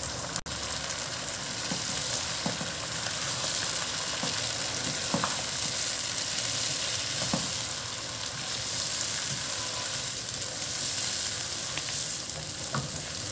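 Chicken pieces and freshly added tomato paste sizzling in hot oil in a nonstick pan. A wooden spatula stirs them, with a few light knocks and scrapes against the pan.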